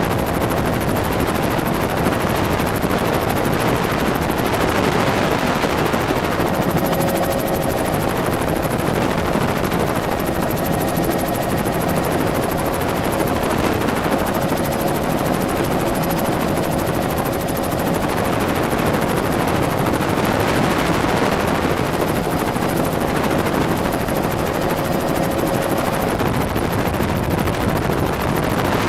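Helicopter in flight: steady, loud rotor and engine noise, heard from inside the cabin, with a faint steady whine that comes and goes.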